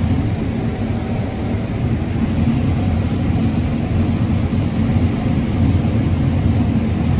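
Combine harvester running steadily while harvesting corn: a constant low drone of engine and threshing with no change in pitch.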